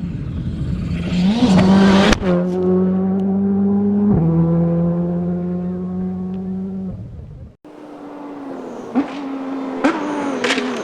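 Rally car engines at high revs. The pitch jumps suddenly twice in the first half, as at gear changes. About seven and a half seconds in the sound cuts abruptly to another car running, with several sharp cracks.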